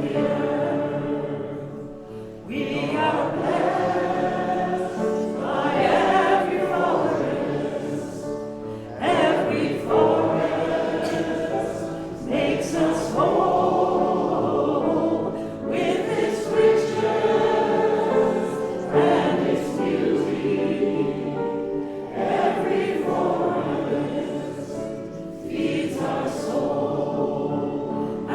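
Many voices singing a hymn-like anthem together, in phrases a few seconds long with short breaths between them.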